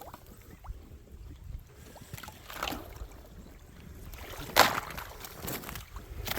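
A few slow, uneven footsteps on frozen ground, the loudest about four and a half seconds in.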